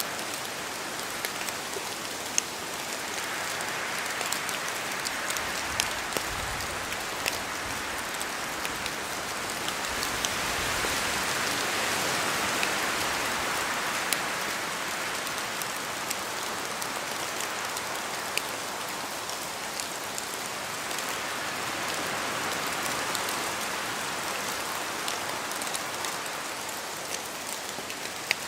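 Steady rain in a forest with wind, swelling and easing in slow gusts, and scattered sharp ticks of single drops falling from the trees.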